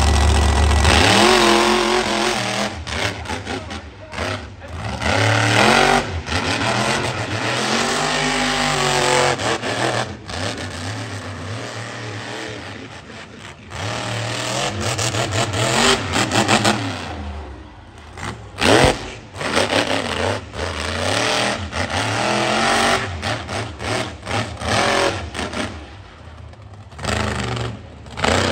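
Monster truck engines revving hard, their pitch climbing and falling again and again as the trucks race over the jumps. Sharp knocks and bangs come through in the second half.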